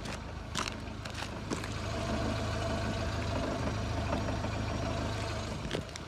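A car engine idling steadily, heard close to the car's exhaust and underside. Two brief knocks come in the first two seconds.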